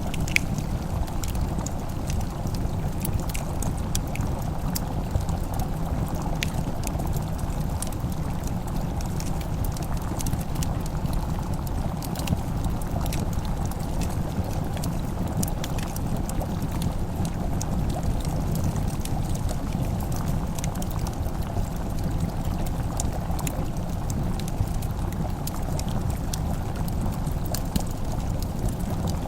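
Wood fire crackling in a fireplace: scattered sharp pops and clicks at irregular intervals over a steady low rumbling noise.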